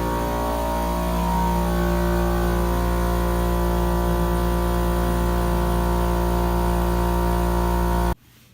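Air compressor running steadily, a constant hum with a hiss on top, which cuts off suddenly near the end.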